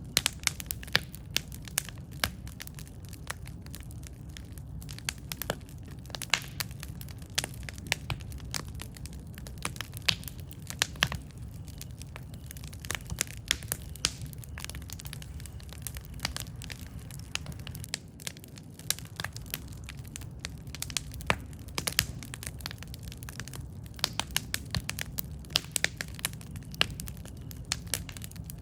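Campfire burning: a steady low rumble of flames with frequent sharp, irregular crackles and pops from the burning wood.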